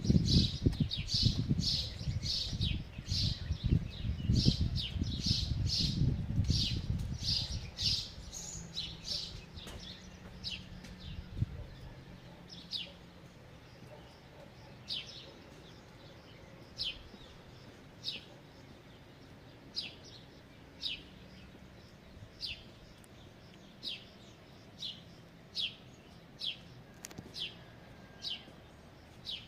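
A small songbird chirping over and over: short, high chirps, quick and close together at first, then settling to roughly one a second. A low rumbling noise sits under the chirps for the first twelve seconds or so and then stops.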